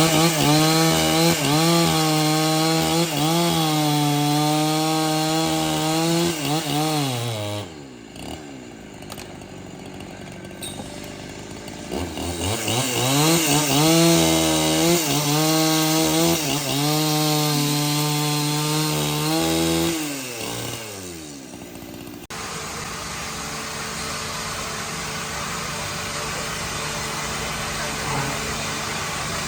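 Chainsaw running at full throttle, held steady twice, each time winding down in pitch as the throttle is let off. About two-thirds of the way in, a cut gives way to a steadier, quieter machine hum.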